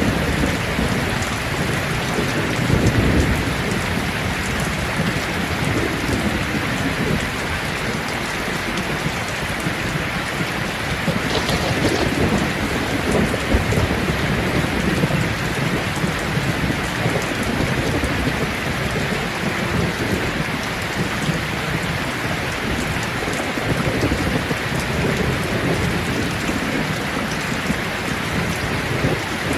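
Steady rain falling on leaves, with a low rolling rumble that swells and fades every few seconds.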